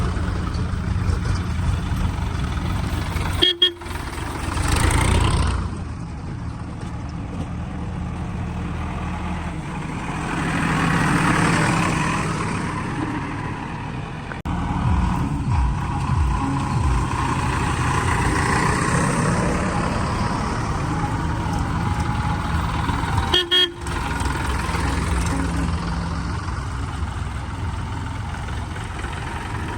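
Heavy diesel vehicle engines of tractors and a backhoe loader running steadily, with a vehicle horn sounding at times and swells of broad noise.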